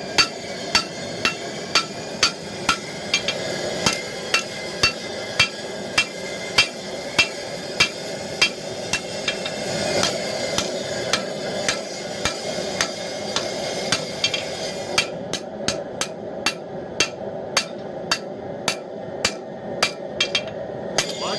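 Hand hammer, about 800 grams, striking hot steel on the horn of an anvil. The blows come in a steady rhythm of about two a second as the knife's tang is tapered. A steady background hiss stops about two-thirds of the way through.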